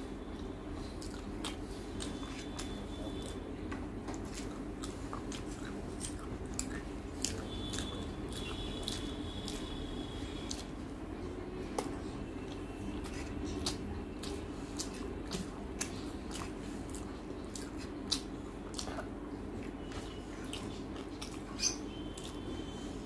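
Close-miked eating by hand: chewing of rice and chicken curry with small irregular mouth clicks and smacks, over a steady low hum.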